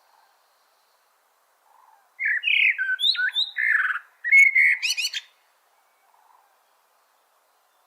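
A songbird sings one phrase of varied whistled notes lasting about three seconds, ending in a quick run of rising notes.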